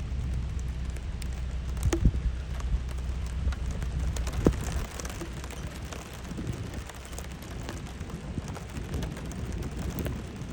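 Rain falling steadily in a thunderstorm, with wind rumbling on the microphone in the first half. A couple of sharp knocks land about two and four and a half seconds in.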